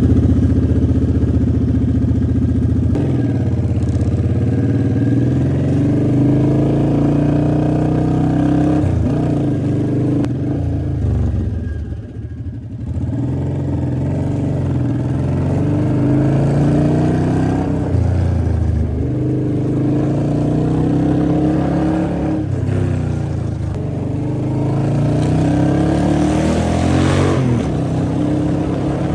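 Suzuki Boulevard M50's 805 cc V-twin engine running and revved up and back down several times, its pitch rising and falling. The engine has just been topped up with fresh oil after being found badly low.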